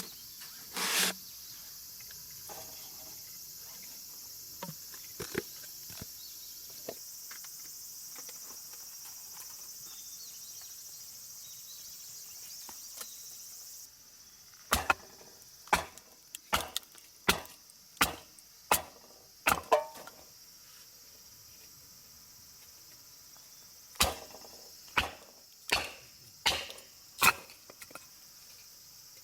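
Steady high-pitched insect chorus that drops off suddenly about halfway. Then a series of sharp chopping knocks on wood, roughly one a second, in two runs.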